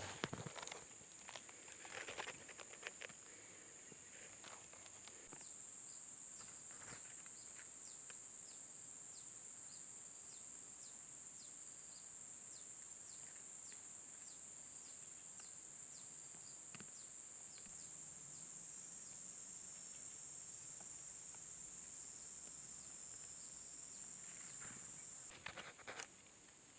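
Steady high-pitched insect drone, like crickets or cicadas, running through most of the stretch and stopping near the end. Brief rustling clicks come in the first few seconds and again just before the end.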